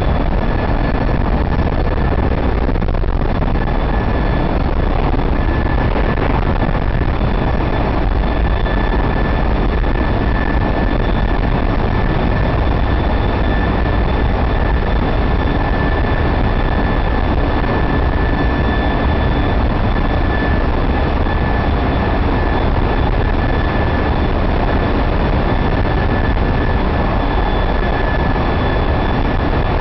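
Loud, steady din of a ship's engine-room machinery, with a steady high whine running over it.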